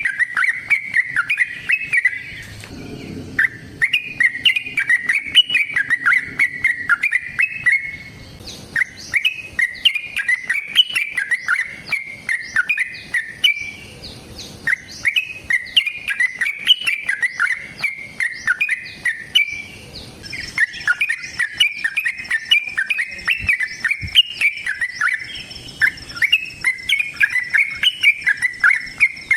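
Yellow-vented bulbul (trucukan) singing long, fast runs of bubbly chattering notes, phrase after phrase, with brief pauses a little after 2, 8, 14 and 20 seconds in.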